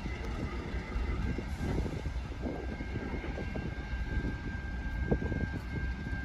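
Train rumbling by with an irregular rattle. A thin, steady high whine joins about three seconds in.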